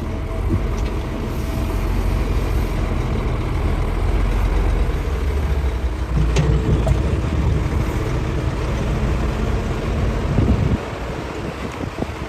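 Hitachi hydraulic excavator's diesel engine running under load while digging rock, a steady low rumble with a sharp knock about six seconds in. The engine note drops off suddenly near the end.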